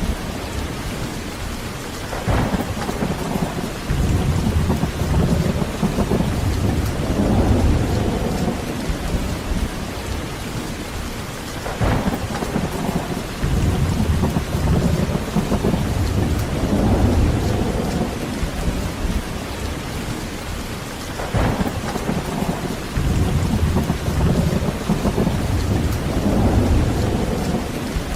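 Heavy steady rain with thunder. Three sharp cracks come about nine to ten seconds apart, and each is followed by a low rolling rumble that swells and fades over several seconds.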